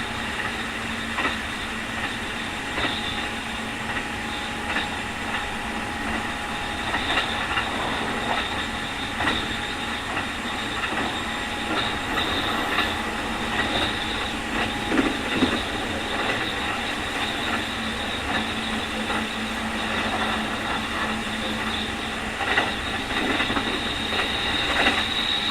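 Keikyu 2000 series electric train (Mitsubishi field-chopper control) running, heard from inside the car: steady whining tones from the drive, the strong 'jet sound' that marks this car as an unusual-sounding one, over a rumble with clicks of the wheels over rail joints. The high whine grows louder near the end.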